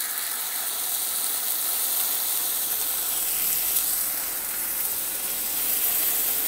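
Sliced onions and a lump of ginger-garlic paste sizzling in hot oil in a kadhai: a steady, crackling frying sizzle.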